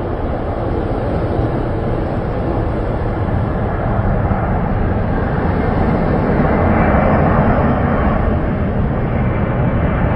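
Jet airliner's engine noise, a steady rush that grows gradually louder as the plane comes in to land.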